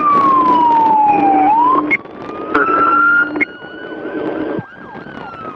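Police motorcycle's siren wailing, its pitch sliding down, sweeping back up, holding and falling again, over a loud rush of noise.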